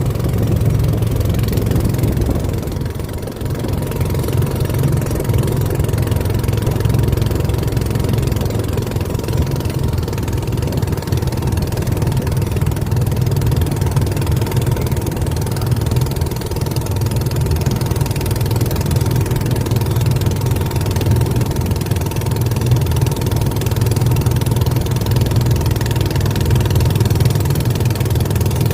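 A boat's engine running steadily with an even low drone and a faint steady whine above it.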